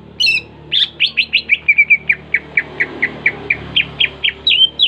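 A songbird singing loudly: a quick run of short, down-slurred whistled notes, about five a second, breaking near the end into a few swooping notes.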